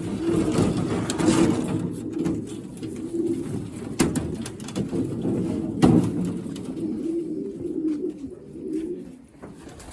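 Racing pigeons cooing over one another in a small loft, with low repeated warbling coos and a couple of sharp knocks about four and six seconds in.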